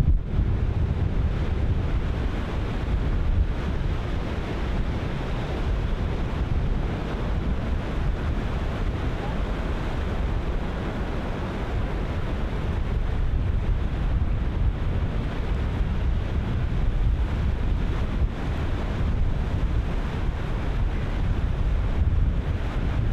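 Ocean surf breaking steadily, wave on wave, with strong wind buffeting the microphone as a low rumble underneath.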